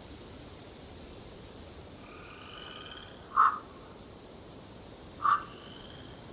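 Two short, loud animal calls about two seconds apart, over the steady faint hiss of forest ambience, with a faint whistled note just before the first.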